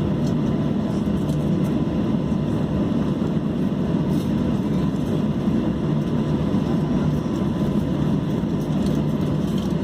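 Steady cabin noise inside a Boeing 737-800 during pushback: an even low rumble with a faint steady whine above it.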